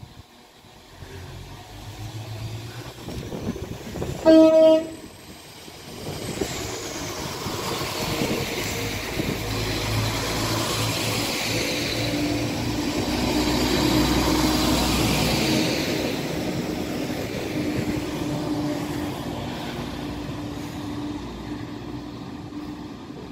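Northern Class 195 diesel multiple unit sounding one short horn blast about four seconds in as it approaches. It then runs in along the platform, its engine and wheel noise swelling to a peak midway and easing off again.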